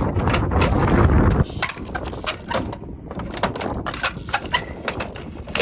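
Wind buffeting the microphone for about a second and a half, then a string of irregular light clicks and knocks.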